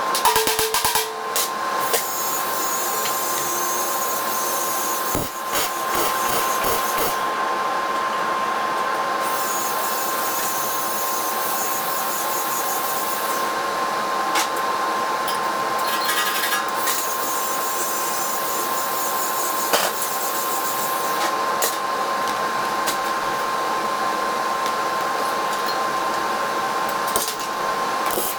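A power tool running with a steady high whine and hiss, its upper hiss dropping away and returning a few times.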